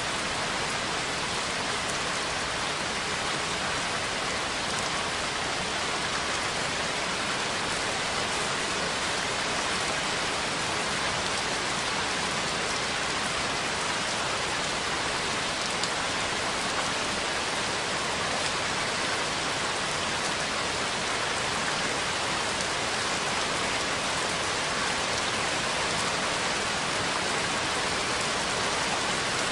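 Steady rain falling and pattering on a surface, an even hiss with no breaks or thunder.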